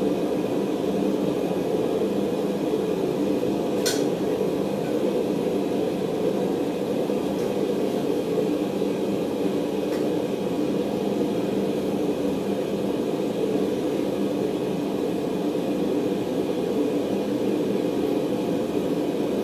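Forge running steadily, an even low rushing noise, as steel is brought up to heat. A single sharp metallic click sounds about four seconds in.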